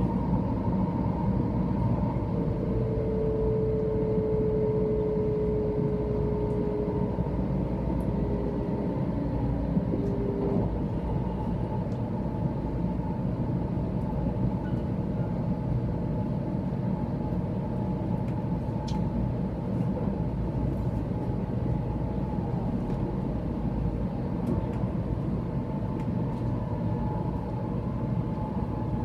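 Steady running noise inside a 700 series Shinkansen car: an even rumble of the train on the track, with a thin whine, falling slightly, from about two to ten seconds in.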